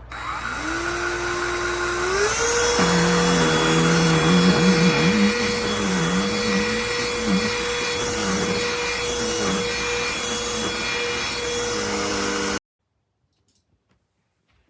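Cordless handheld pet vacuum switched on, its motor spinning up to a steady high whine within about two seconds, then running with a lower wavering drone underneath as it works. It cuts off abruptly near the end.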